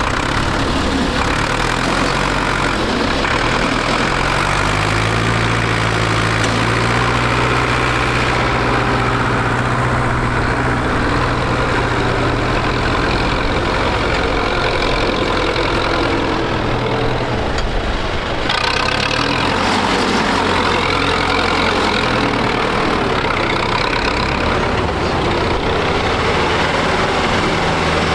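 Tractor diesel engine running hard, its pitch rising about four seconds in, holding, then dropping back about two-thirds of the way through.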